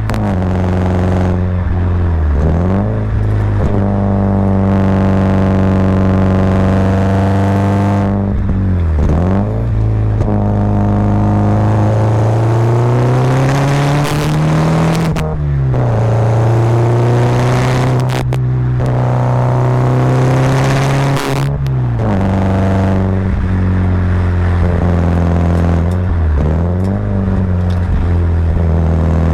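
Subaru Impreza WRX's turbocharged flat-four boxer engine pulling under load, heard from onboard. Its revs hold steady for long stretches and dip sharply and recover a few times, as with gear changes on the climb. About halfway through the revs rise, then drop to a lower steady note.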